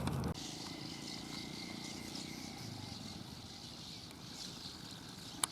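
Outdoor ambience: faint, irregular high-pitched chittering over a low steady rumble, with one sharp click near the end.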